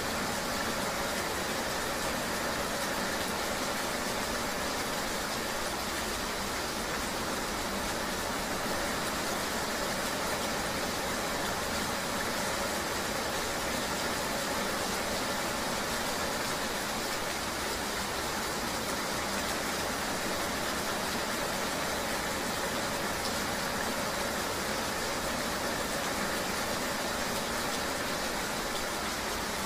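Steady rain-and-riding ambience: an even, unchanging hiss with vehicle noise beneath it.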